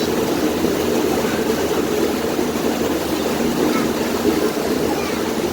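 Passenger launch boat's engine running steadily under way: an even drone with the rush of water along the hull.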